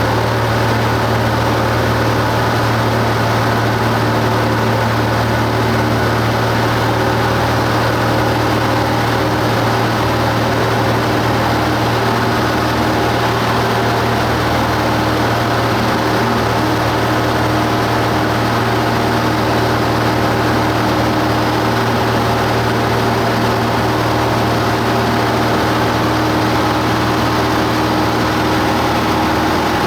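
Cessna 172 Skyhawk's piston engine and propeller running at a steady drone, holding one pitch and level throughout.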